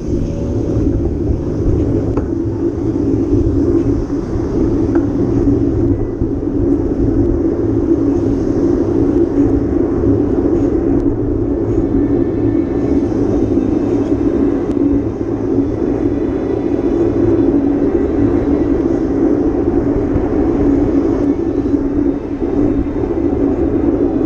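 Steady rush of wind and rolling rumble on the microphone of a camera riding along on a moving bicycle.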